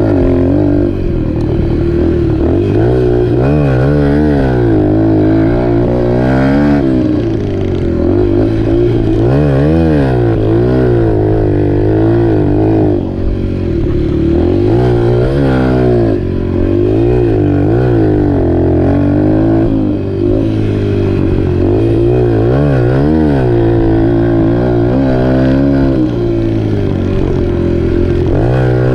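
Dirt bike engine revving up and easing off over and over, its note rising and falling every couple of seconds, over a steady engine drone.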